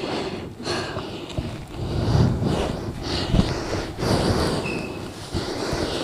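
Cloth towel rustling and rubbing against long hair as it is wrapped around the head, an uneven swishing with a few soft thumps.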